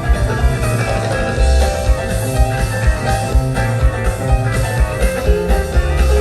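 Rock band playing an instrumental jam with electric guitar, bass and drums keeping a steady beat.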